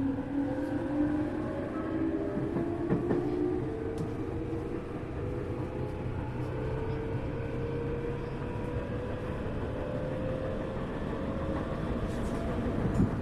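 Tokyu 1000 series electric train heard from inside a motor car: the traction motors' whine rises steadily in pitch as the train accelerates, over the rumble of wheels on rail with a few clicks.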